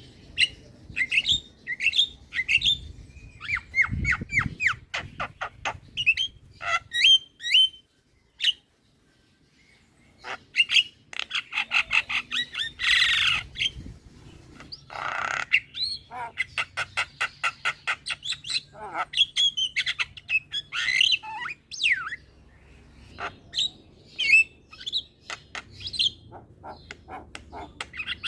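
Javan myna singing: fast runs of chirps, whistles and clicking notes, broken by harsh rasping squawks about 13 and 15 seconds in, with a short pause a little after 8 seconds.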